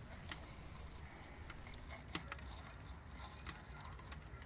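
Faint scattered clicks and light rustles of soil crumbling off a plant's root ball and a plastic pot being handled, over a low outdoor rumble. A faint high chirp sounds near the start.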